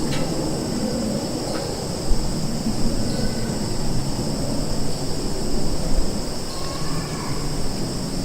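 Summer forest ambience: insects droning steadily at a high pitch over a low rumble, with a few faint short chirps scattered through.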